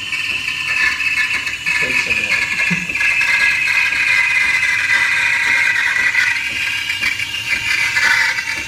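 Breville Barista Express steam wand frothing milk: a loud, steady hiss and screech whose pitch slowly falls.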